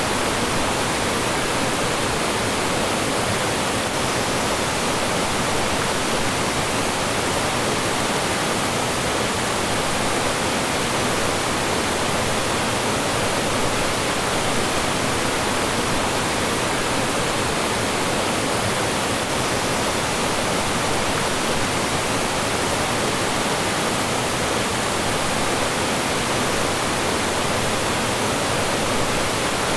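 Mountain stream water rushing and falling over rocks, a steady, dense rush of water with no breaks.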